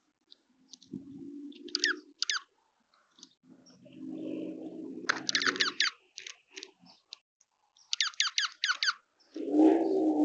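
Bird calls: several quick bursts of four or five high, squeaky chips, with low cooing sounds between them, the loudest cooing near the end.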